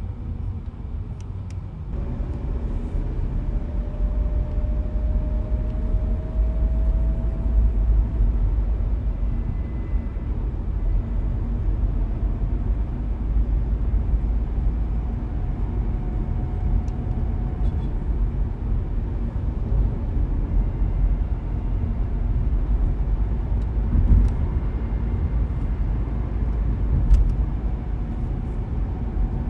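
Car driving along: a steady low rumble of road and engine noise, with a faint engine tone that rises slowly a couple of seconds in as the car picks up speed.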